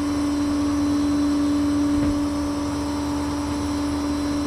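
Steady drone of a vehicle heard from inside the cab, with a constant low hum that does not change.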